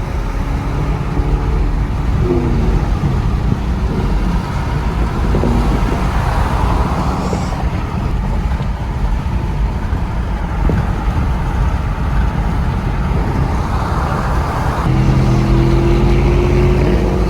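Car engine running with a constant low rumble of driving noise. About fifteen seconds in, a steadier engine tone comes up and rises slightly in pitch.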